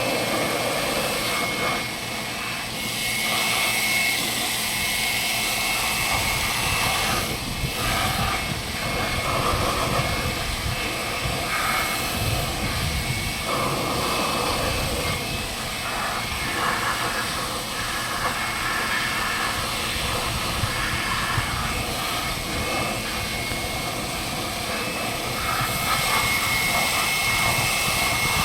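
A machine running steadily with a constant high whine over a loud hiss and irregular rattling.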